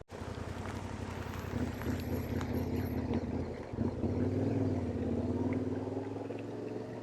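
Yamaha Ténéré 700's parallel-twin engine running under way, its note rising and falling with the throttle and breaking off briefly about four seconds in.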